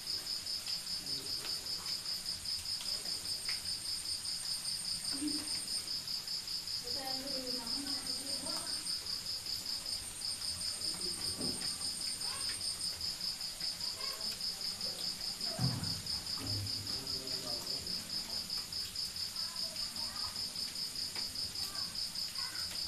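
Crickets chirping in a steady, rapid, evenly pulsed high trill, with a second, higher insect trill that drops in and out over the first half; faint low scattered sounds lie beneath.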